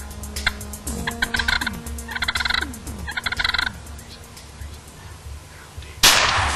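Wild turkey gobbler gobbling three times in quick succession, then a single loud gunshot near the end.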